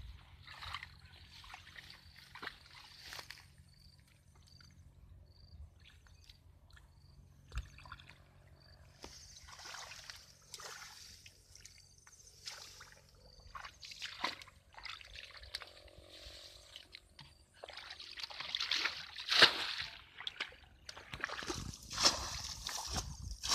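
Water sloshing and splashing in irregular bursts, with trickling between them. The splashes grow louder and come closer together in the last few seconds.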